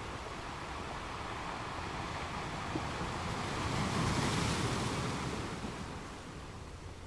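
Ocean waves on a beach: a steady surf hiss that swells as one wave breaks a little past halfway through, then falls away.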